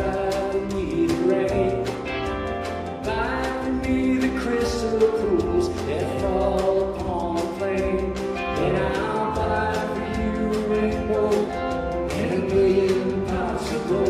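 Live country-folk band playing a song with singing voices over a steady beat.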